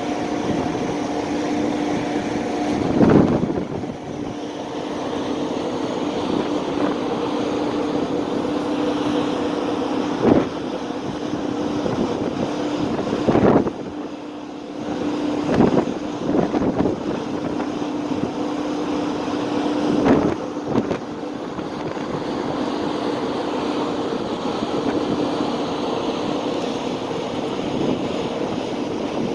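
Steady droning hum of a passenger ferry's engines and machinery under way, with a rushing noise over it and about six brief thumps spread through it.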